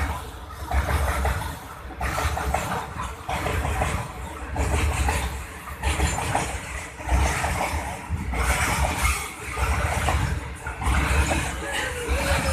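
A moving train: a steady low rumble with rushing noise that swells and fades unevenly.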